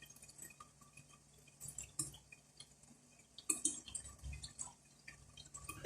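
Faint kitchen sounds: scattered small clicks and drip-like ticks, irregularly spaced, over a faint steady low hum.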